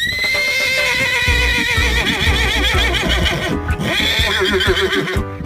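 Horse whinnying: a long call that starts high and quavers as it fades, then a second quavering whinny about four seconds in, over music with a steady low beat.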